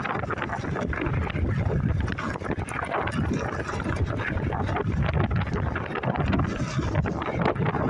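Wind buffeting a phone's microphone in a shirt pocket while riding a bike: a loud, choppy rumble with rustling.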